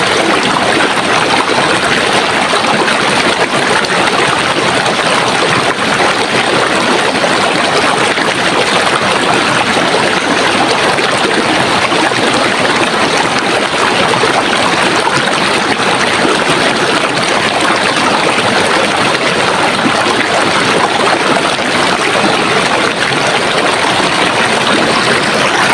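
Running water of a stream, a steady loud splashing rush with no pauses.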